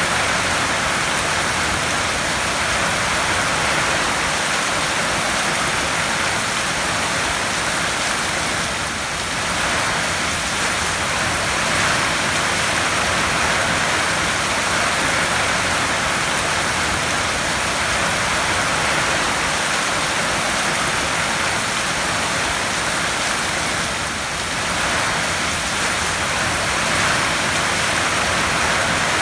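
Heavy rain falling steadily on a tin roof, easing slightly for a moment twice.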